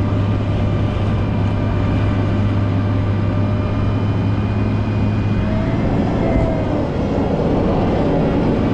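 Volvo L90H wheel loader's diesel engine running steadily, a deep, even drone with faint whining tones above it.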